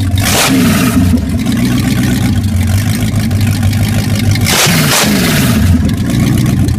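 Ford 351 Windsor V8 engine idling steadily, shortly after its first start in 15 years. The throttle is blipped twice, about half a second and about four and a half seconds in, each time the pitch rising quickly and falling back to idle.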